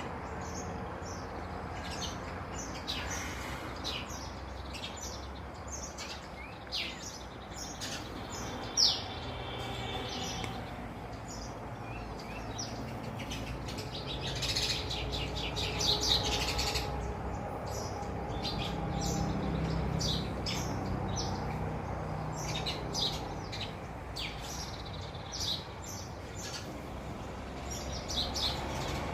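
Small birds chirping: many short, high chirps in quick succession, busiest about halfway through, over a steady low background rumble.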